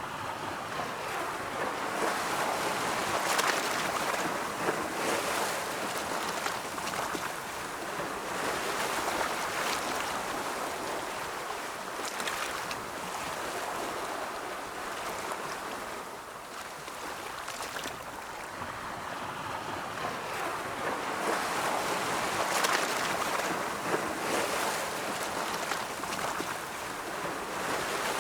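Ocean waves breaking and washing on a shore: a continuous surf hiss that swells and ebbs every several seconds.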